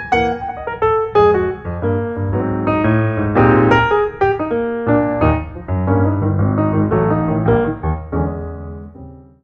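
Solo piano music, a flowing melody over chords, fading out near the end.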